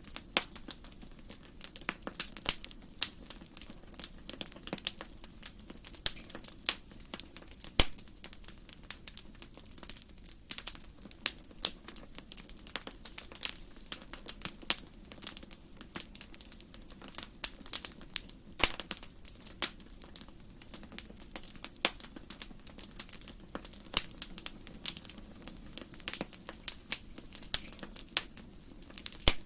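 Wood fire crackling in a fireplace: irregular sharp pops and snaps, several a second, with a few louder snaps, over a steady low rush of flame.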